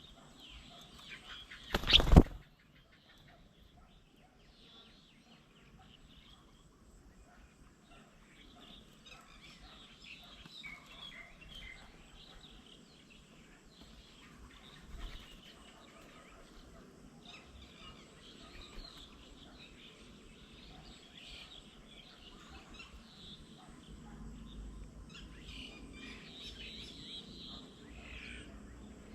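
Several birds chirping and calling on and off, with a loud, sharp knock about two seconds in.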